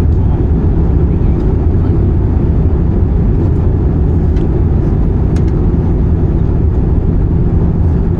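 Steady cabin noise inside an Airbus A320-214 airliner: an even, loud low rumble of its CFM56 engines and airflow, with a few faint ticks.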